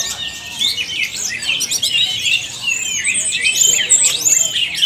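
Caged orange-headed thrushes (anis merah) singing, with several birds' rapid whistled and chattering phrases overlapping without a break, as at a songbird training session.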